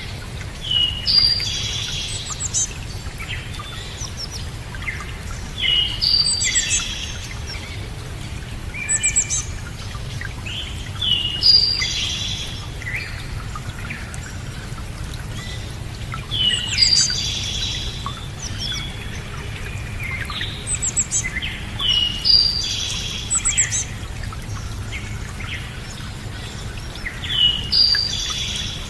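A songbird singing short, quick phrases of chirps and whistled slides, repeating every few seconds, over a steady low rumble.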